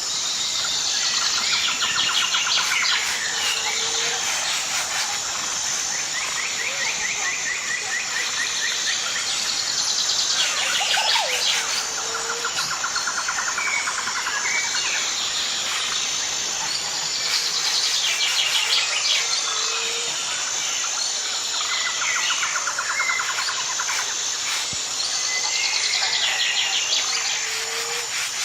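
Birds chirping and trilling in repeated phrases over a steady high-pitched drone of insects.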